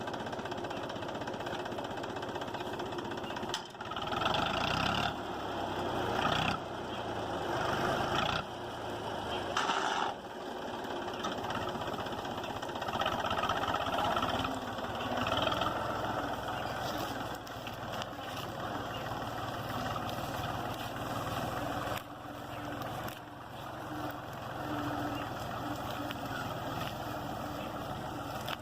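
Mahindra 265 tractor's diesel engine running steadily under load while it drives a reaper binder cutting wheat.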